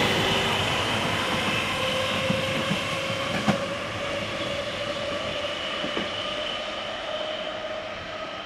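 Berlin S-Bahn class 480 electric train pulling away and fading into the distance, its drive whining steadily and rising slightly in pitch. A few clicks as the wheels cross rail joints and points, the sharpest about three and a half seconds in.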